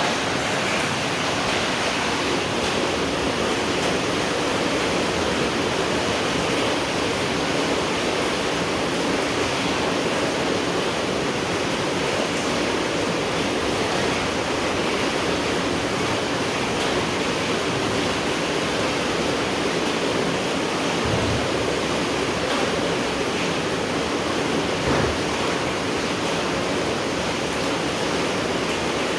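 Steady heavy rain falling at night, a dense even hiss. There are two faint low thumps about two-thirds of the way through and near the end.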